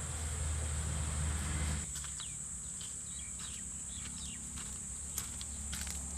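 Outdoor rural ambience: a steady, high-pitched insect drone, with a low rumble that stops abruptly under two seconds in. Short bird chirps and a few clicks follow.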